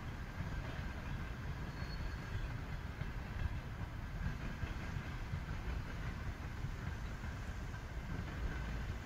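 Steady low rumble of a train moving on the tracks some distance away.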